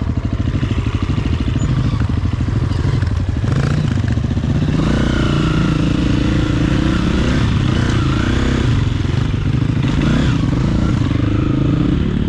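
Dirt bike engine running at low revs for the first few seconds, then rising and falling in pitch with the throttle as the bike rides along.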